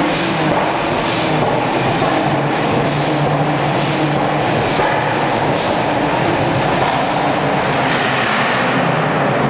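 Car engines and traffic rumbling, a loud steady din echoing inside a road tunnel.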